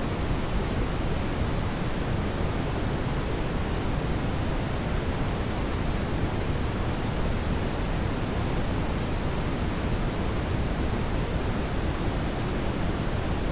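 Brown noise: a steady, even rushing noise, heaviest in the deep low end and thinning toward the top, with no events or changes in it.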